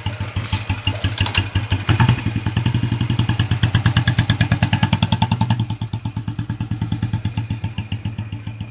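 1994 Royal Enfield's single-cylinder engine running just after a cold start, with an even exhaust beat. It picks up a little about two seconds in and settles back to a lower idle about six seconds in.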